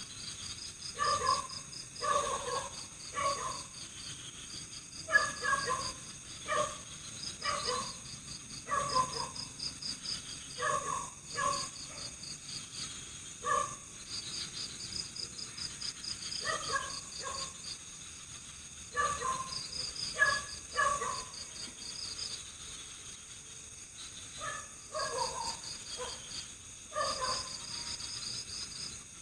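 Night forest chorus: crickets trilling in short pulsed bursts over a steady high insect drone. Short calls from another animal repeat irregularly underneath, in clusters of several.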